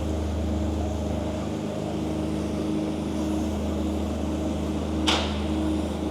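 Steady engine hum running at an even pitch, with one short sharp hiss or click about five seconds in.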